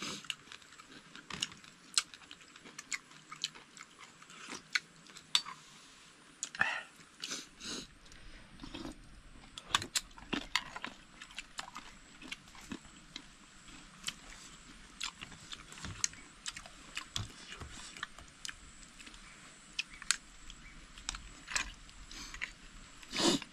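Someone eating close to the microphone: chewing with irregular sharp clicks, and a short louder sound near the end.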